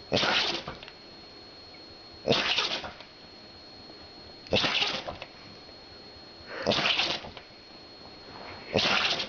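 A dog sneezing over and over: five short, sharp sneezes about two seconds apart, a sneeze attack.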